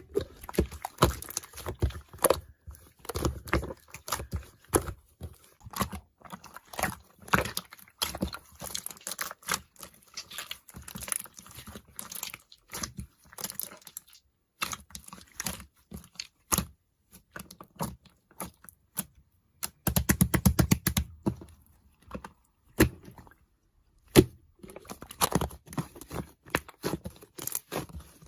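Computer keyboard typing: irregular key clicks, with a fast unbroken run of keystrokes about twenty seconds in.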